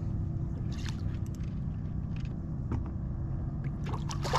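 Steady low rumble of water and wind around a fishing kayak, with a few faint clicks.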